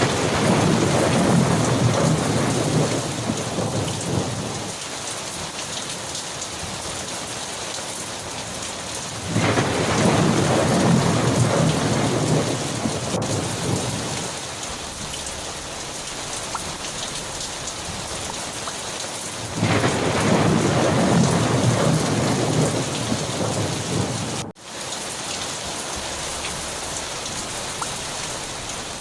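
Steady heavy rain with rolling thunder that swells and fades three times, each roll lasting about four seconds, at roughly ten-second intervals.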